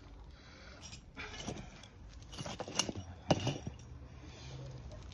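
Firewood being chopped: a few separate sharp knocks and clicks of wood struck, the loudest around three seconds in.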